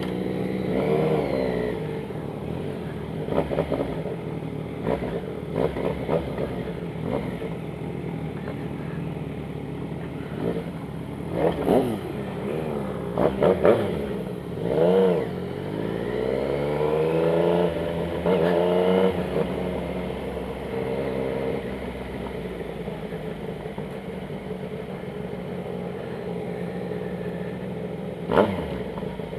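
Yamaha MT-09's three-cylinder engine revved in a string of short, sharp throttle blips over a steady idle. Around the middle come longer revs that fall and rise in pitch. One more sharp blip comes near the end.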